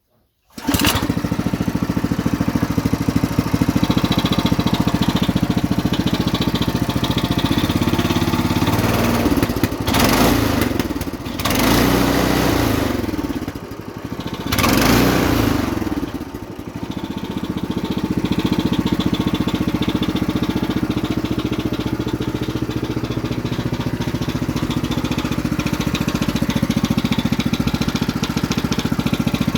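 Homemade tractor's engine running steadily. It comes in abruptly about half a second in, and its speed rises and falls twice in the middle before settling back.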